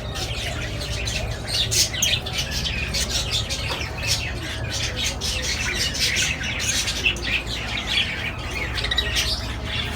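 A roomful of small parrots, budgerigars and lovebirds, chattering and squawking together in a dense, continuous mix of high chirps, over a steady low hum.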